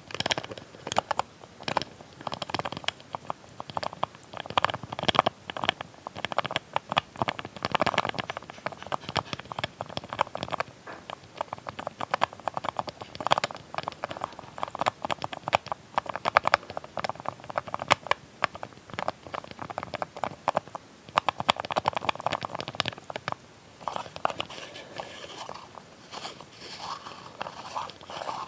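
A small lid handled close to the microphone for ASMR: dense, irregular clicking, tapping and crackly scratching.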